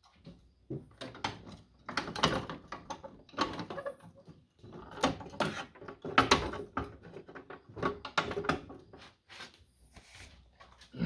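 Tractor seat being lowered and handled, with a string of irregular clunks and rattles.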